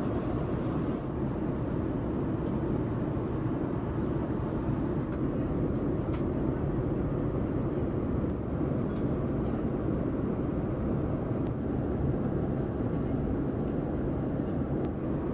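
Steady cabin noise of a Boeing 787-9 airliner in flight: an even, low rush of engine and airflow noise heard from inside the cabin, with a few faint ticks.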